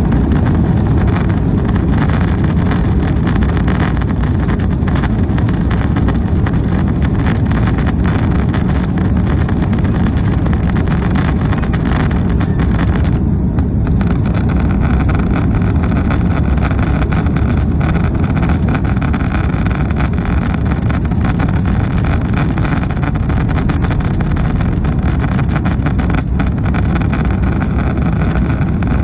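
Airbus A330 engine and airflow noise heard inside the cabin during the takeoff climb, a loud steady rumble, with the filming phone rattling against its rest.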